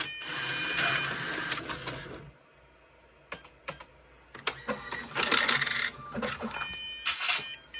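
Toshiba TEC automatic change machine's mechanism running: a busy whirring of rollers and motors that stops about two seconds in. A few sharp clicks follow, then the machine whirs again with clicks and a louder clatter near the end, and steady high electronic tones come in.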